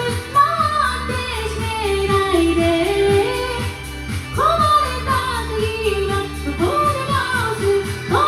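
A woman singing a Japanese pop song over a karaoke-style backing track with a steady beat.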